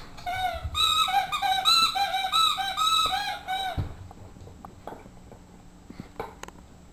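Dog's squeaky toy being squeezed over and over, a quick run of high squeaks about four a second that stops a little after halfway. A thump comes as the squeaking ends, then a few faint taps.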